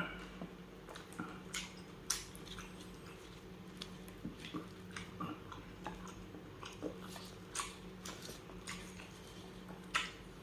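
A person chewing and biting spicy tuna sisig close to the microphone, ASMR-style: an irregular run of short mouth clicks and smacks over a faint steady hum.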